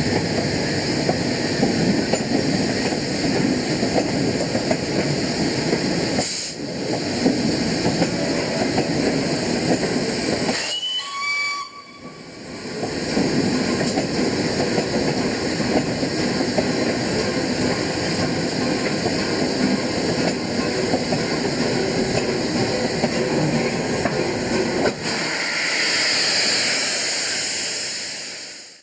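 LNER Peppercorn A1 steam locomotive 60163 Tornado working a heavy train out of the station, a loud mass of exhaust and steam noise. A short whistle blast comes about eleven seconds in, and a steadier steam hiss takes over in the last few seconds.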